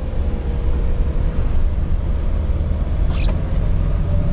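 LPG-converted UAZ Bukhanka van under way: a steady low engine and road drone with a thin whine that slowly rises in pitch as it picks up speed. A short scrape-like noise comes about three seconds in.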